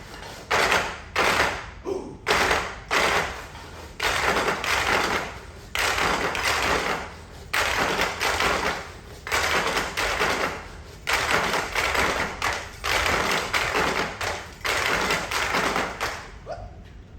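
Tap dancers' shoes and stomping feet beating out a rhythm on stage: a run of sharp hits, some running together into longer scraping rushes.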